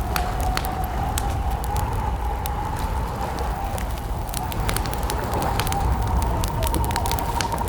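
Wood campfire crackling with frequent sharp pops, over a steady high cricket trill and a low rumble.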